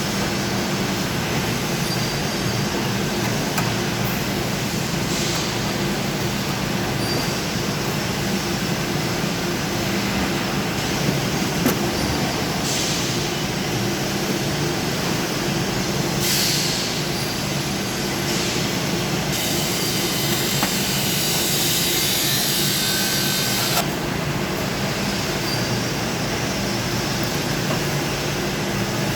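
Fogging machine running with a steady engine drone, broken by bursts of hiss in the middle, the longest lasting about five seconds.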